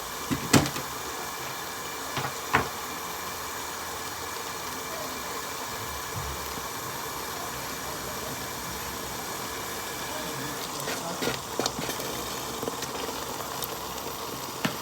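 Pot of tomato-pepper stew simmering on the stove with a steady hiss, with a few sharp knocks about half a second and two and a half seconds in, and a cluster of lighter clicks around eleven seconds.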